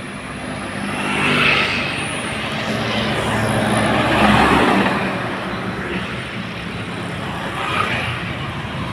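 A heavy truck passing on a wet road, its diesel engine and tyre noise swelling to a peak about four seconds in, then easing off.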